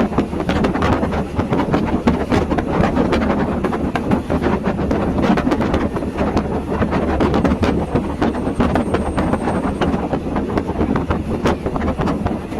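Train running along the track, a steady rumble with many irregular clacks and knocks from the wheels on the rails.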